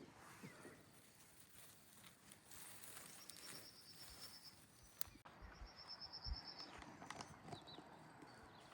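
Near silence: faint rural outdoor ambience with scattered light ticks and two short, high, rapid trills about three and five and a half seconds in.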